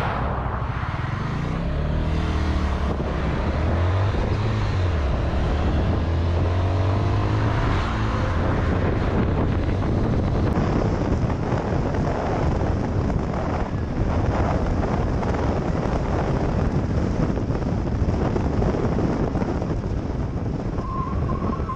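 Motorcycle engine running on the road, heavy wind and road noise, with the engine note rising and falling about four seconds in.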